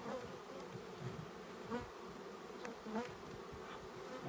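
A swarm of honey bees buzzing steadily, a mass of bees just shaken from their package into the hive, with a few louder buzzes as single bees fly close.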